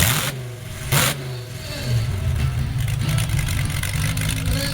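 A stunt vehicle's engine running and revving, with two short, sharp bursts of noise, one at the very start and one about a second in.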